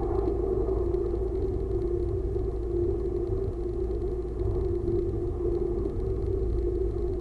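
Diesel railcar running along the track, heard from inside the driver's cab: a steady low rumble of engine and wheels on rail under an even hum.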